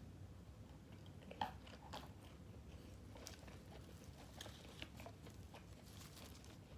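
A person eating grilled pork balls with crisp raw vegetables close to the microphone: quiet chewing with scattered crunchy bites, the sharpest about a second and a half in.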